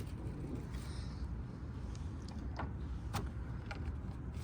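Plastic brake fluid reservoir cap being screwed back on by hand: a few faint clicks and knocks over a steady low background rumble.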